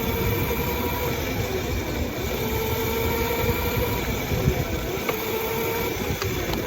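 A small motorbike's motor running steadily while riding, with a steady whine that drifts a little in pitch, over rushing wind noise on the microphone.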